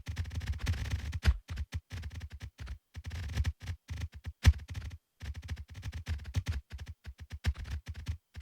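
A rapid, irregular series of short clicks and low thumps, a few louder than the rest, that cuts off abruptly near the end.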